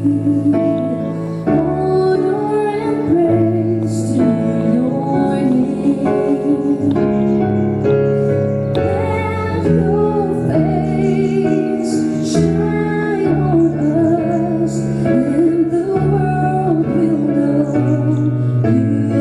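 A woman singing with vibrato over held keyboard chords.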